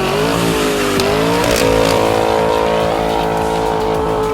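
Car engine revving: the pitch climbs, dips briefly, then climbs again about a second and a half in and is held steady at high revs.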